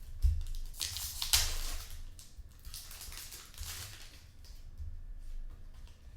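Trading cards being handled and slid through a stack, a rustling with light clicks, loudest in the first couple of seconds and then fainter.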